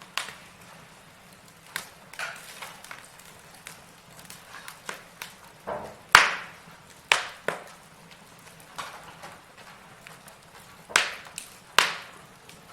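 Wood logs burning in a fireplace, crackling with irregular sharp pops and snaps over a faint hiss; the loudest pops come about six and seven seconds in, and two more near the end.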